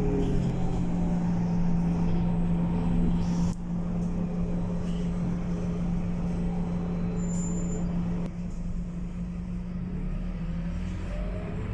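Scania K230UB bus engine running with a steady drone. About three and a half seconds in there is a short hiss and the sound drops in loudness; it eases again around eight seconds in, and faint rising tones come in near the end.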